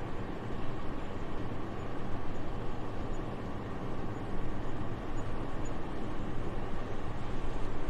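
Steady, even wind noise with a deep low rumble, rising and falling slightly in small swells.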